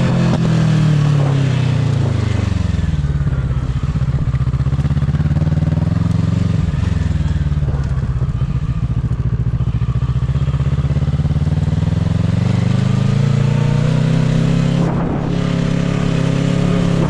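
Motorcycle engine running while riding. Its pitch drops over the first few seconds as it slows, holds low for a while, then climbs again near the end as it picks up speed.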